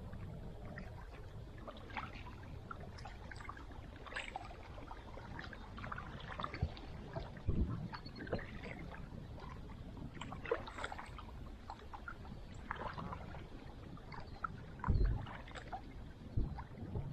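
Wind-driven lake water slapping against a small boat's hull, over a low wind rumble, with scattered small clicks and knocks and a couple of dull thumps.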